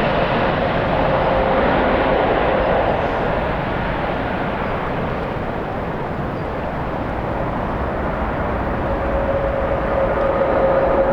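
Jet airliner engine noise mixed with strong wind rumbling on the microphone. A steady engine tone fades out after a few seconds and returns near the end.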